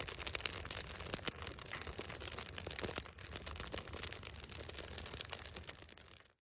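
Wood fire crackling, with dense irregular snaps and pops over a steady hiss; the sound cuts off abruptly near the end.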